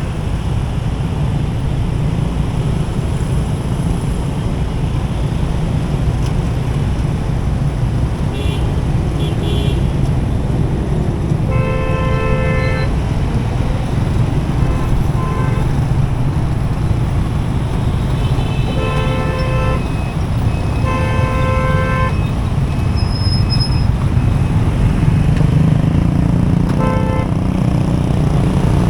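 Riding in heavy motorcycle and car traffic: a steady low rumble of engines, tyres and wind, with vehicle horns honking about five times, the longest held for about a second.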